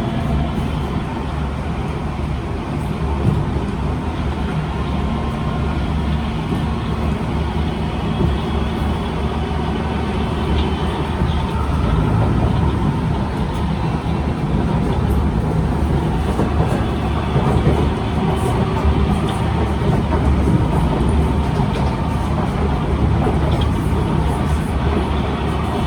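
Cabin noise inside a Kawasaki C151 MRT train running between stations: a steady, loud rumble of wheels on the track and the moving car.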